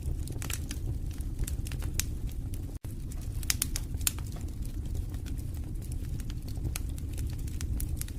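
Wood fire burning in a fireplace: a steady low rumble of flames with irregular sharp crackles and pops. The sound drops out for a split second about three seconds in.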